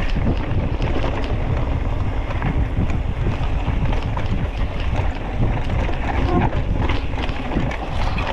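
Wind buffeting the microphone of a moving bicycle rider: a loud, steady, low rumbling rush of air with faint small ticks.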